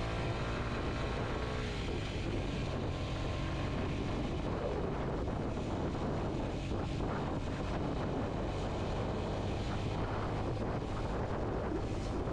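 Kawasaki Z125's 125 cc single-cylinder four-stroke engine running steadily on the move, mixed with wind noise over the microphone.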